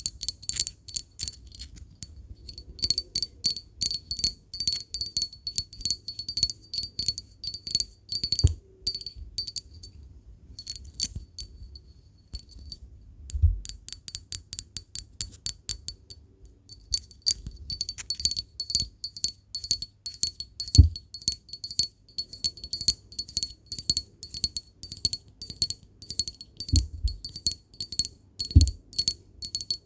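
Rapid tapping on glass, quick runs of sharp taps that set the glass ringing with a steady high tone, pausing briefly twice, with a few soft low thumps in between.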